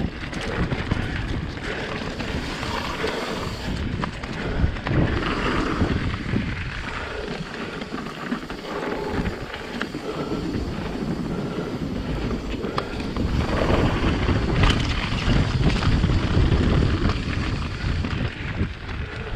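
Mountain bike descending a dirt trail: wind buffeting the GoPro microphone over the rumble of knobby tyres, with frequent knocks and rattles from the bike over rough ground. The rumble grows louder for several seconds near the end.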